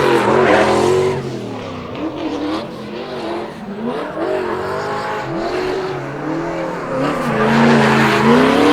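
Toyota Supra MK4's turbocharged 2JZ straight-six revving up and down repeatedly while drifting, the pitch swinging several times and the engine getting louder near the end.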